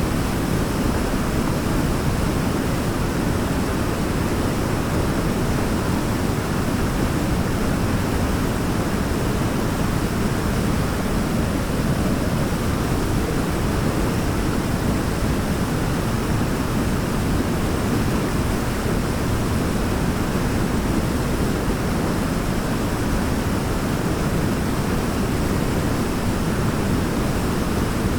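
Waterfall: water pouring and crashing in a dense, deep, unbroken rush with no separate splashes.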